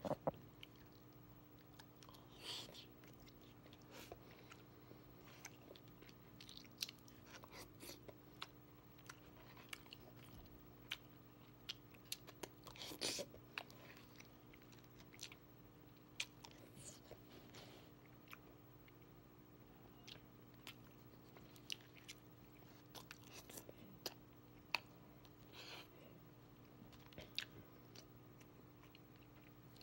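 Faint close-up chewing and eating of buffalo chicken and mac and cheese: irregular mouth smacks and small clicks, a few every second or two, over a faint steady hum.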